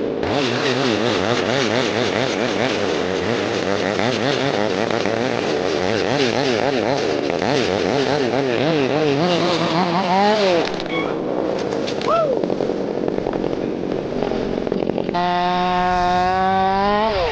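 Two-stroke chainsaw cutting spruce, its engine pitch wavering quickly up and down as the chain loads and frees in the cut. About fifteen seconds in it switches abruptly to a steady high rev that slowly climbs.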